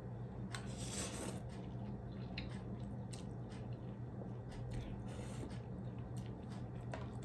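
Close-up mouth sounds of someone eating: chewing, with scattered small crunches and wet squishes, over a steady low electrical hum.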